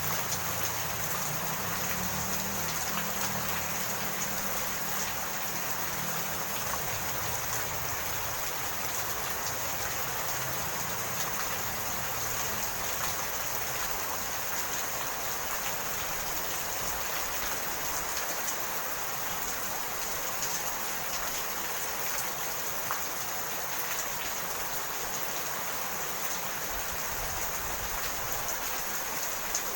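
Steady rain falling, an even hiss with fine pattering drops. A low rumble underneath fades out over the first few seconds.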